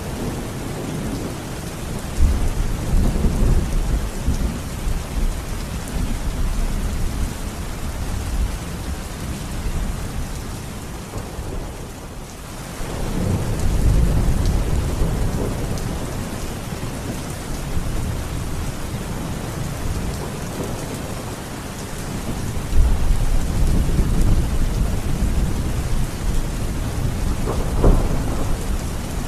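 Steady rain falling, with deep rolling thunder rumbling up three times: about two seconds in, around the middle, and again near the end.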